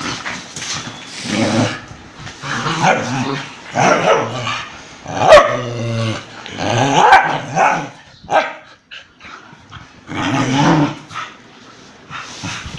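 Dogs fighting: growling and barking in repeated loud outbursts, with a quieter gap about eight to nine seconds in.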